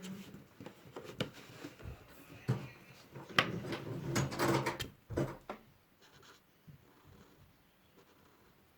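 Drawing supplies being handled, with a series of clicks and knocks, the sharpest about three and a half seconds in. After that comes faint scratching of colouring on paper.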